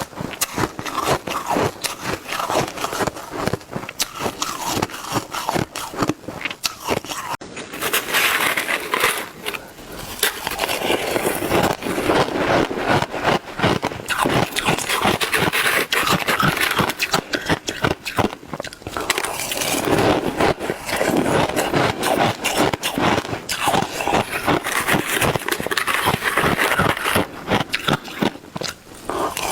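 Shaved ice being bitten and chewed in fast, big mouthfuls: a dense run of crunching and crackling, with scraping of the ice.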